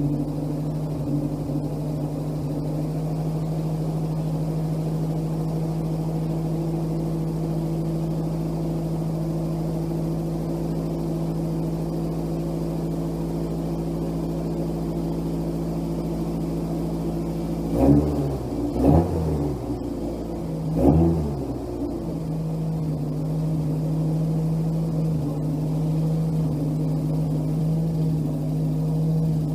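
Nissan SR20DET turbocharged four-cylinder, freshly swapped in and just fired up for the first time, running at a steady idle. About two-thirds of the way through, the throttle is blipped three times in quick succession, the revs rising and falling each time before it settles back to idle.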